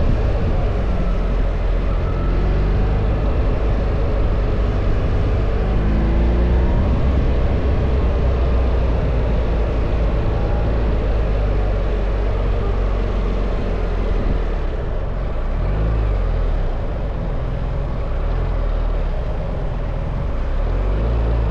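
BMW R1300 GS boxer-twin engine running while riding, with steady wind rush. The engine note rises and falls a few times in the first seconds as the throttle changes.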